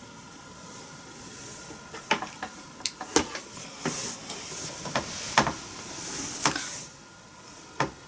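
A steady hiss with a string of sharp clicks and knocks and bursts of rustling, clustered in the middle of the stretch.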